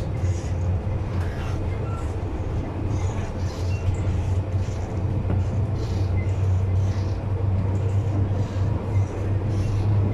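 Inside a moving MTR M-Train electric multiple unit: the steady low hum of the train running along the track.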